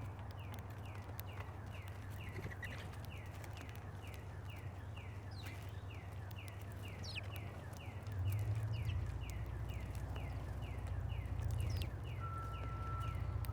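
A small bird repeats a short downslurred call note steadily, about three times a second. Under it is a low outdoor rumble that gets louder about eight seconds in, and a brief steady high tone sounds near the end.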